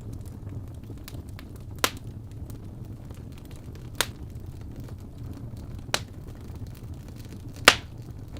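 Wood fire burning in a fireplace: a steady low rumble with light crackling, and four sharp pops from the burning logs, about two seconds apart, the last the loudest.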